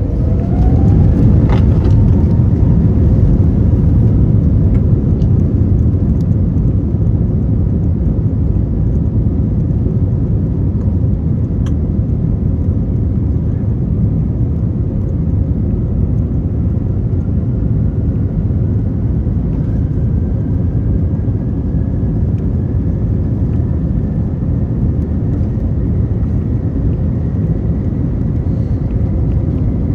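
Airbus A321neo cabin noise from its CFM LEAP-1A engines: a steady loud rumble. In the first two seconds a whine rises in pitch and the sound gets louder as the engines spool up. A fainter tone climbs slowly in the second half.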